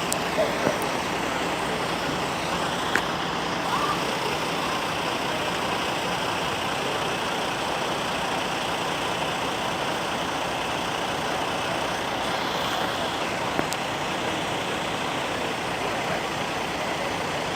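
Steady rushing of flowing floodwater, an even unbroken noise, with a couple of faint clicks.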